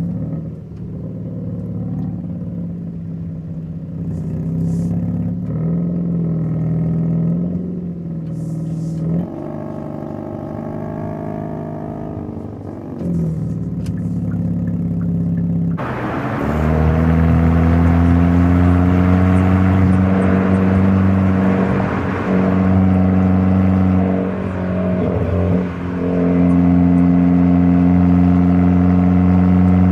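Hyundai Elantra N's 2.0-litre turbocharged four-cylinder engine and exhaust running while the car is driven, the engine note stepping in pitch with several gear changes. About halfway through it grows louder and fuller and holds strong under steady load.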